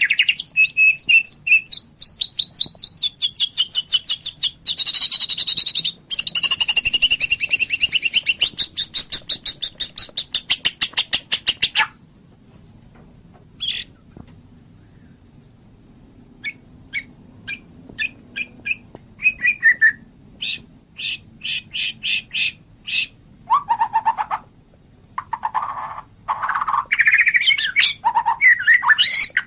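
White-rumped shama (murai batu) singing: fast, rapidly repeated high trills for the first dozen seconds, then a short lull with a few single notes. After that come spaced sharp chips and, near the end, lower whistled phrases.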